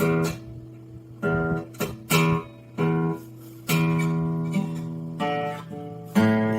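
Acoustic guitar strings strummed in separate, unevenly spaced strokes, each chord left to ring and fade, some for more than a second.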